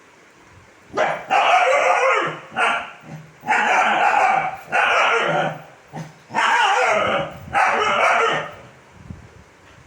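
Seven-month-old Kombai puppy barking repeatedly, a run of about six long barks starting about a second in.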